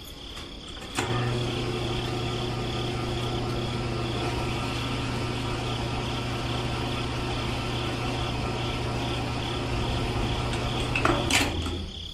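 A small electric motor switched on with a click, running at a steady, even pitch for about ten seconds, then switched off with a click near the end.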